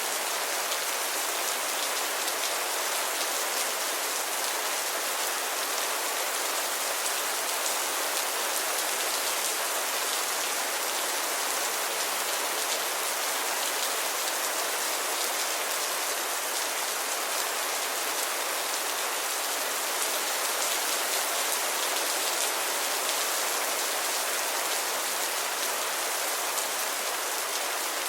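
Steady rainfall, a dense even patter of raindrops that does not change.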